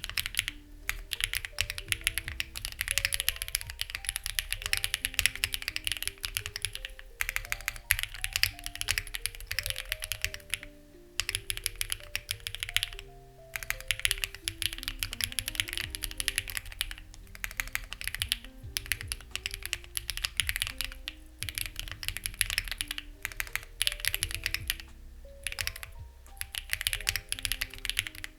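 Steady fast typing on a Lucky65 v2 mechanical keyboard with stock, unlubed HMX Ziwei switches and CMK-clone keycaps: dense runs of keystrokes a few seconds long, broken by short pauses. Soft background music with held notes plays underneath.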